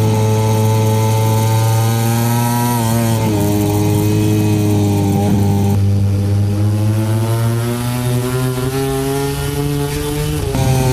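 MotoGP race bike engine heard from the onboard camera, running hard. Its pitch drops about three seconds in, climbs steadily through the second half, and changes abruptly near the end.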